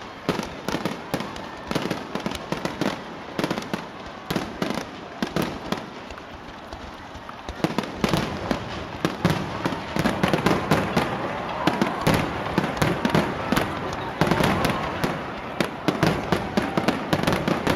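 Fireworks display crackling: a dense run of rapid pops that grows thicker and louder about halfway through, with rising whistles from the shells later on.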